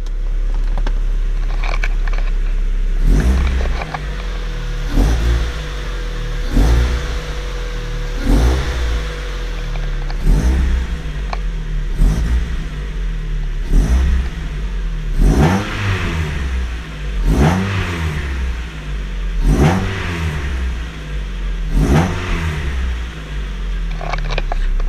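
1999 Mazda MX-5 Miata's 1.8-litre four-cylinder engine idling, then blipped with the throttle about a dozen times, roughly every two seconds, each rev rising and falling back to idle. Heard through a GoPro's built-in microphone.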